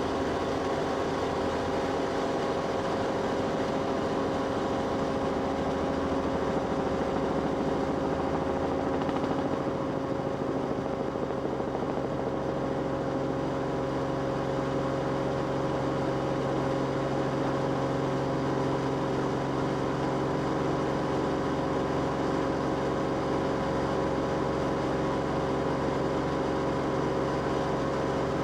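Steady drone of an aircraft's engine heard from inside the cabin, running at a constant pitch.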